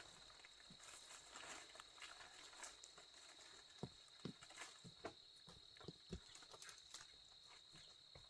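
Faint, irregular knocks and taps, most of them in the second half, over a steady high-pitched tone.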